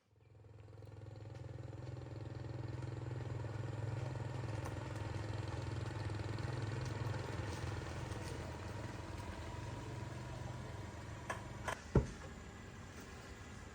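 A vehicle engine running steadily. Near the end it stops, followed by a couple of clicks and one sharp knock.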